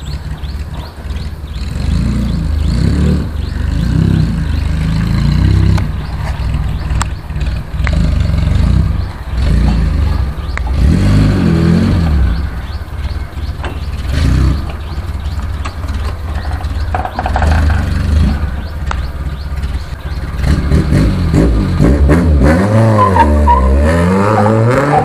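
Modified 2000 Maruti Suzuki Gypsy 4x4's four-cylinder petrol engine running under way, its pitch rising and falling again and again as it is driven and manoeuvred. Near the end come several quick revs up and down.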